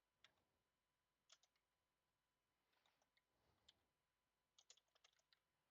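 Near silence, broken by faint, scattered clicks of a computer mouse and keyboard. A quicker run of clicks comes near the end.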